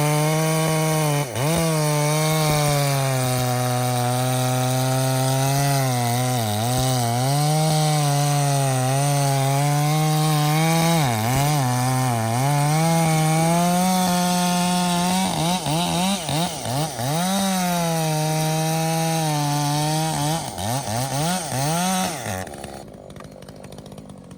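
Two-stroke chainsaw at high revs cutting hardwood, its pitch sagging and recovering as the chain bites. In the last part the throttle is blipped up and down rapidly, then the engine note drops off sharply near the end.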